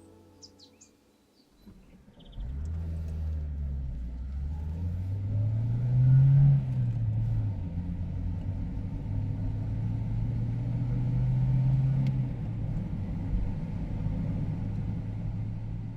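A motor vehicle's engine running: it comes in suddenly about two seconds in, rises in pitch as it speeds up around the middle, then settles and runs at a steady low pitch.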